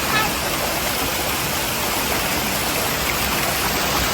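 Mountain stream water rushing steadily, an even, continuous noise.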